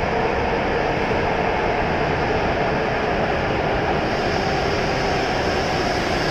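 W7 series Shinkansen electric train arriving at the platform, its cars rolling past with a steady running noise of wheels and motors. A high-pitched tone joins about four seconds in.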